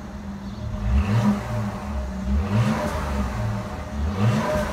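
Mercedes-Benz GLS450's 3-liter V6 bi-turbo engine being revved in repeated throttle blips, each one a short rise in pitch, about every second and a half.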